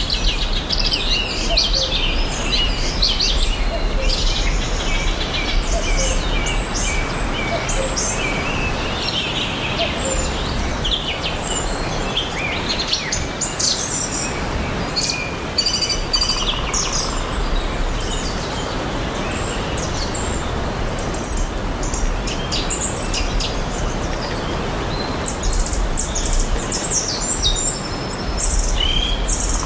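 Several songbirds chirping and singing, with many short calls and trills throughout, over a steady even hiss of outdoor background noise.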